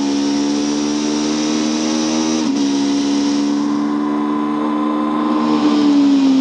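Honda CB500 parallel-twin racing engine held high in the revs at race speed, heard onboard with wind rush. The note climbs slightly, dips briefly about halfway through, then holds and falls away near the end.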